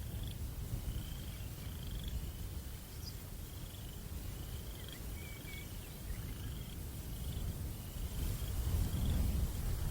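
Crickets chirping at night: short, even chirps at about one a second. Under them runs a low wind rumble that swells near the end.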